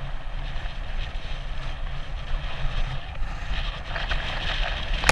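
Wind buffeting a GoPro's microphone with a steady, gusty low rumble, as the bicycle carrying it rides along.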